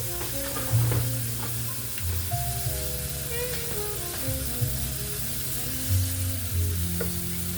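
Food sizzling steadily in a hot frying pan, with a few sharp clicks, over background music with a stepping bass line.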